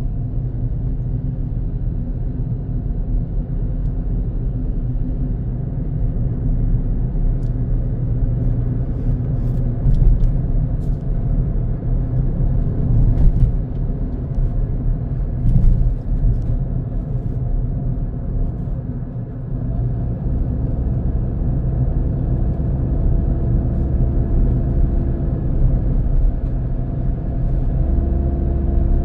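A car driving on a road: a steady low rumble of engine and tyre noise, with a few short knocks a little past the middle. From about two-thirds of the way through, a steady engine tone comes up more clearly.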